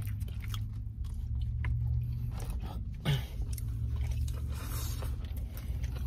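Close-miked chewing and biting of Coney Island food, chicken wings and chili cheese fries, with many scattered small crunches and mouth clicks. A low steady hum runs underneath.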